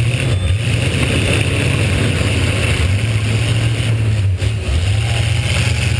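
V8 engine of a demolition derby car running hard, its revs wavering up and down, heard from on board.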